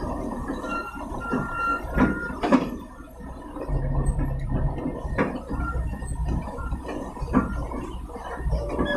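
Small sand-laden truck's engine running with a low rumble, with several sharp knocks and rattles from the truck.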